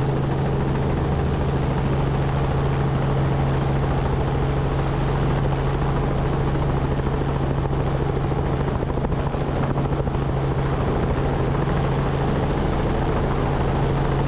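Helicopter running steadily in flight, heard from inside the cabin: a constant low hum from rotor and engine over an even wash of noise.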